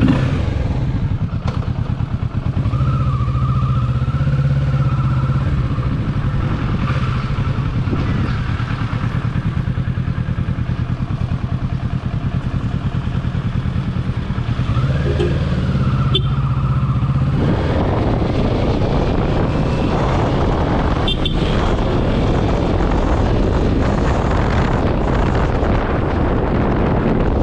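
Motorcycle engine running steadily while riding, with road and wind noise. Some way past the middle, the engine note gives way to a louder, even rush of wind.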